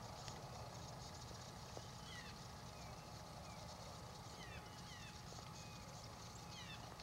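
Faint wild birds calling: short falling chirps in small groups, a few times, over a low steady rumble.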